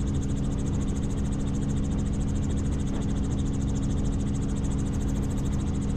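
Helicopter in flight: a steady drone from the rotor and engine, with an even, rapid flutter in the high end.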